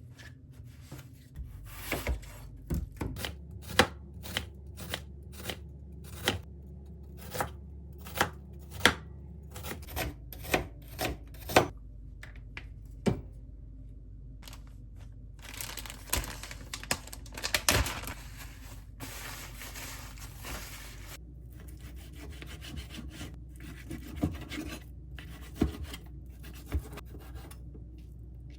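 Knife chopping ingredients on a cutting board in separate cuts, about one to two a second. Around the middle come several seconds of steady scraping, then more scattered cuts near the end.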